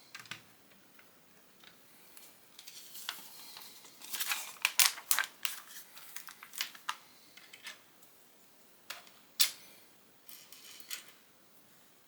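Plastic Lego bricks being handled and pressed together: irregular sharp clicks and light rattling, with a dense flurry of clicks and rustling a few seconds in and a single loud click about nine seconds in.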